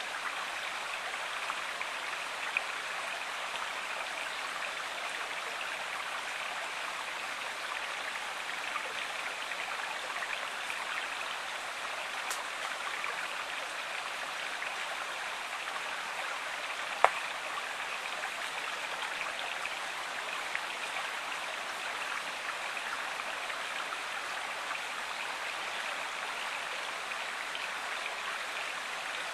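A river or stream flowing steadily, an even rush of water, with a few faint sharp clicks; the loudest click comes a little past halfway.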